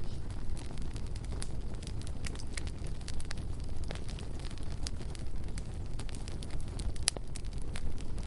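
Bonfire burning: a steady low rumble of flames with frequent irregular crackles and pops of burning wood, one sharper crack about seven seconds in.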